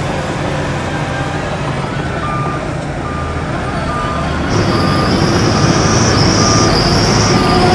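Heavy diesel machinery running with a reversing alarm beeping at an even pace. About halfway through, a loud, wavering high-pitched squeal starts and carries on.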